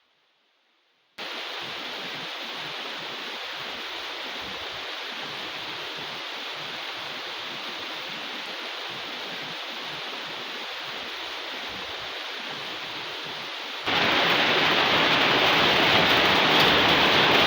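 Heavy rain falling, a steady hiss that starts abruptly about a second in and becomes much louder and heavier near the end.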